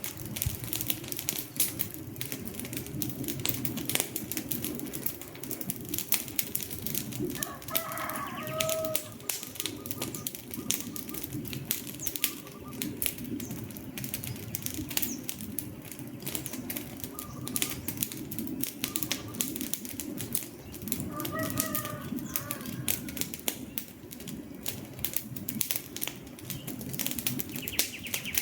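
Wood fire crackling, with frequent sharp pops over a low rush of flames. Short warbling bird calls come through about 8 seconds in and again around 21 seconds.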